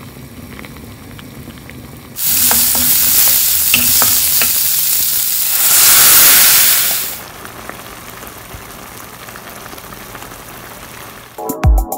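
Mung beans bubbling in a pot. About two seconds in, a loud sizzle starts as mung beans and smoked fish are sautéed and stirred in a hot pan; it is loudest around six seconds and drops back to a quieter simmer about seven seconds in. Music starts just before the end.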